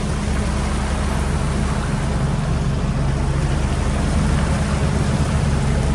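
Fishing boat's engine running steadily: a low hum under a constant rush of noise.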